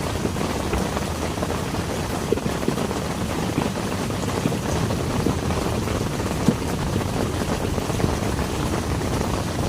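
Heavy rain falling steadily, a dense low rush with scattered sharp drop hits.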